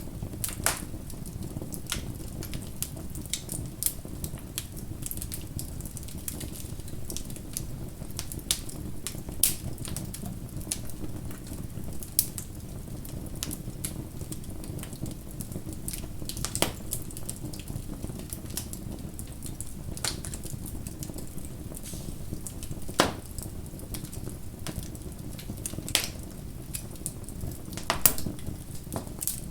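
Wood fire burning with a steady low rumble and constant crackling, scattered sharp pops, a few of them louder, the strongest about 23 seconds in.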